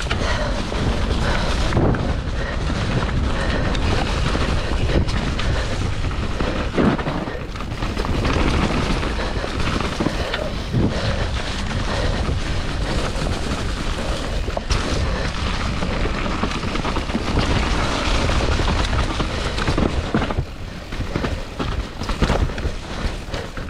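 Mountain bike descending a dirt race course at speed: wind buffeting the microphone in a loud, steady rumble, with scattered knocks and chatter from the bike over rough ground. The rumble eases a little near the end.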